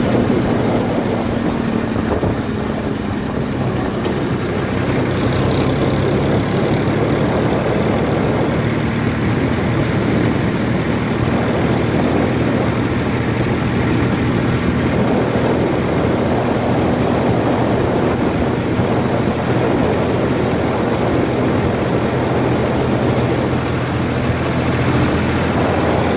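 A heavy diesel engine running steadily at a constant speed, with a low, even hum.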